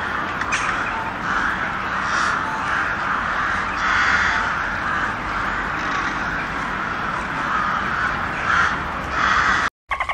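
A flock of birds calling at once, many harsh calls overlapping in a continuous din that swells louder every second or two.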